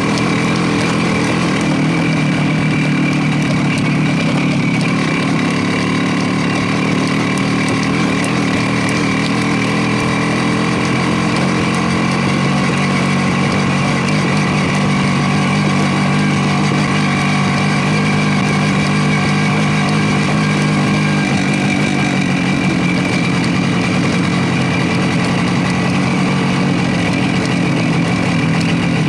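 Motorcycle engine running steadily at an even pitch, with a slight change in tone about two-thirds of the way through.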